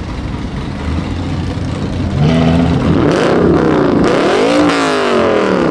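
Lexus RC F's 5.0-litre V8 idling, then revved from about two seconds in, the pitch climbing and falling back twice, highest near the end.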